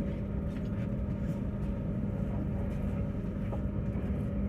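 Steady rumble and hum inside a Tilt Train passenger carriage: low running noise with a constant droning tone.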